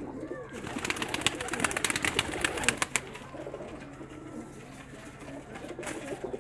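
Domestic pigeons cooing, with a run of rustling and clicking in the first half that dies away by about three seconds in.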